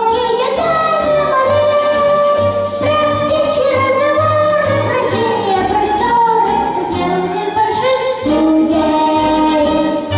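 A solo voice singing a melody with instrumental accompaniment: long held notes with vibrato over a steady bass.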